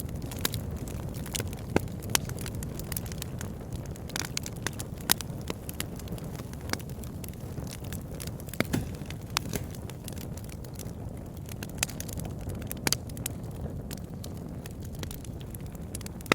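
Campfire burning with a steady low rumble and frequent irregular crackles and pops from the burning wood.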